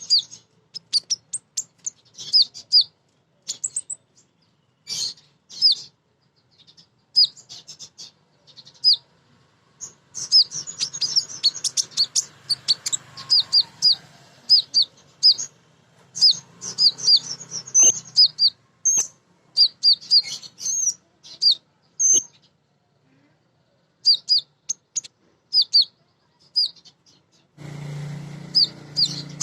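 Female kolibri ninja sunbird calling: rapid runs of short, sharp, high chirps, each sliding down in pitch, in bursts with short pauses between them. A low background hum comes in near the end.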